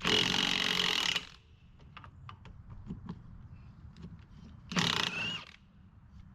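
Impact wrench running in two bursts, about a second long at the start and a shorter one near the end, loosening wheel lug nuts, with light clicks of handling between.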